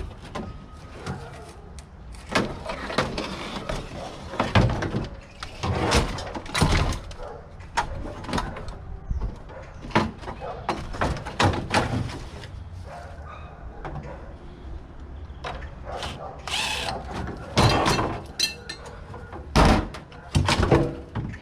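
Irregular metal clanks, knocks and rattles of sheet-metal brackets and coil parts being worked loose and pulled apart in a closet air-conditioning unit.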